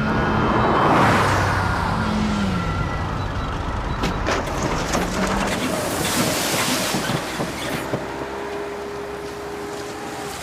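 A car engine running and revving, its pitch rising and falling, with a loud rushing noise about a second in and again past the middle.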